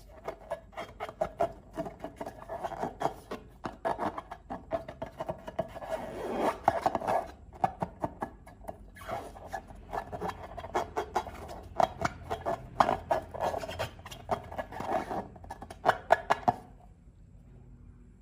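Slime and rubber balloons being worked by hand: a rapid, irregular run of sticky crackles and pops over rubbing and squeaking. It stops shortly before the end.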